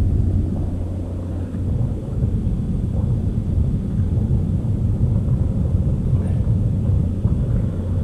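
Diesel engines of a river towboat pushing a barge tow, running with a steady low rumble.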